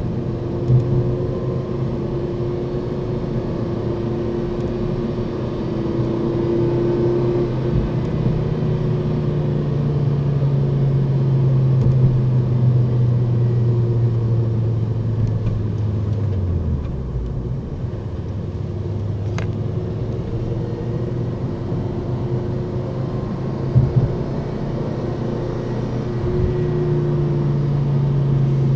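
Ford Focus ST 2.5's five-cylinder turbo engine and drivetrain droning steadily on the move, with a low hum that falls away about two-thirds of the way through and returns near the end. A couple of short knocks, near the start and about 24 s in. Somewhere in it is the odd driving noise the owner calls strange, not identified.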